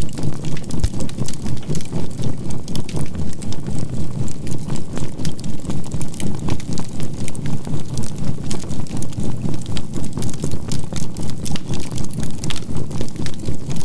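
Wood and charcoal fire crackling with many small pops, over a low binaural-beat drone that pulses evenly about four times a second, with a faint steady 528 Hz tone.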